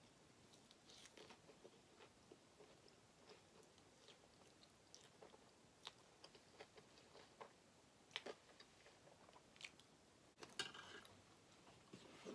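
Faint, close-up chewing of sauce-and-cheese-topped French fries, with soft mouth smacks and small clicks of a fork. About ten and a half seconds in, a louder brief clatter as the metal fork is set down on the metal sheet pan.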